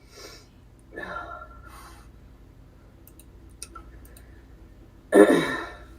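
A quiet, indistinct voice and a few faint clicks, then a short loud vocal sound about five seconds in.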